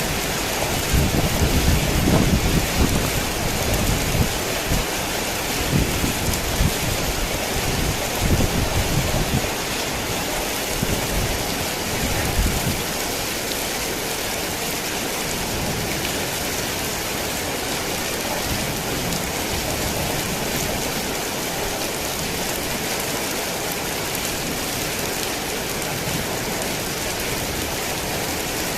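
Heavy rain falling in a steady, even hiss. A low, uneven rumble sits under it in the first half and dies away about twelve seconds in.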